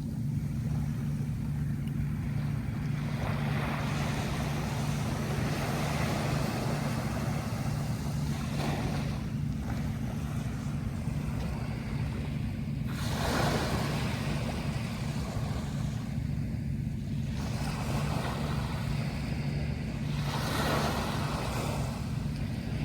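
Sea waves breaking, the surf swelling and fading in three rushes, the clearest about halfway through, over a steady low rumble.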